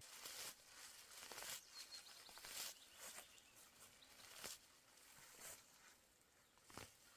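Faint, irregular rustles and crackles.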